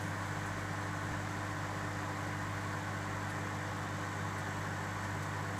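Microwave oven running with a steady low hum as it heats a bag of popcorn; no kernels are popping yet.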